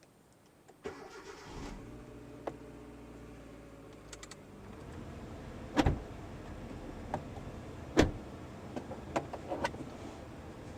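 Car engine starting about a second in and then running steadily, with several sharp knocks and clicks over it; the two loudest come about six and eight seconds in.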